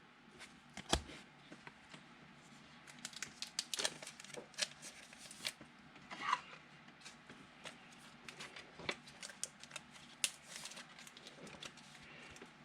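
Trading cards and foil pack wrappers being handled: faint, scattered crinkling, rustling and light clicks.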